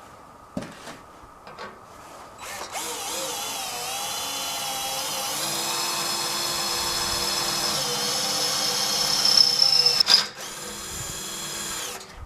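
Power drill running under load as it drills a hole. It starts about two and a half seconds in, runs steadily and grows louder, stops briefly about ten seconds in, then runs again for a moment before stopping.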